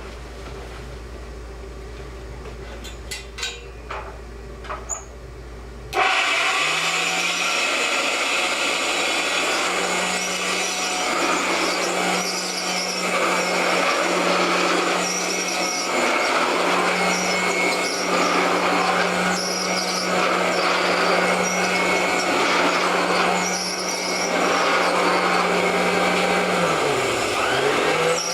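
1960s Birtman-made Kenmore upright vacuum cleaner's one-speed motor switched on about six seconds in after a few clicks, then running loudly with a steady hum and a rising and falling rush every couple of seconds. The motor runs with a little bearing noise from wear. Near the end its pitch dips briefly and recovers.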